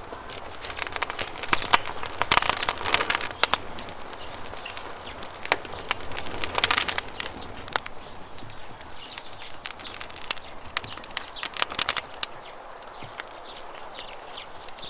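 Wood campfire crackling: irregular sharp pops and snaps that come in clusters, busiest in the first few seconds, around the middle and again towards the end. A soft steady hiss of running water lies underneath, and a few faint bird chirps come in the second half.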